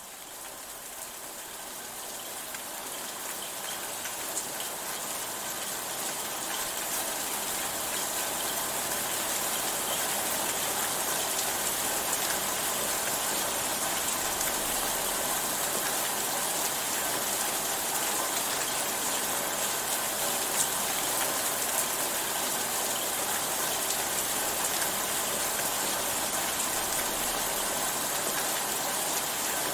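Steady rain falling, a dense even hiss with fine pattering drops, fading in over the first ten seconds or so and then holding steady.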